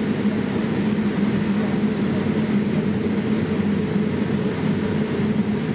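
Steady cabin noise inside a Boeing 787-8 airliner: an even rush of engine and airflow noise with a constant low hum.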